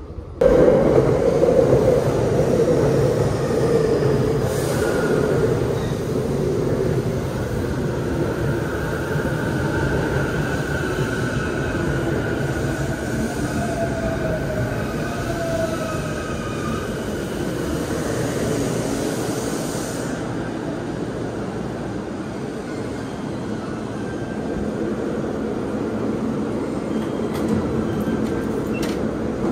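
JR East E233-7000 series electric train pulling into the platform and slowing to a stop: steady rumbling running noise that gradually eases, with a squeal from the wheels and brakes in the middle and a falling whine as it slows.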